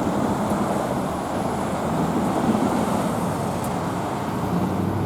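Train passing with a steady rolling noise and no distinct knocks or horn.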